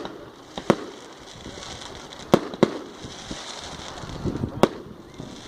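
Fireworks going off in a display. Four sharp bangs come over a steady hiss: one under a second in, a pair about a third of a second apart in the middle, and one near the end.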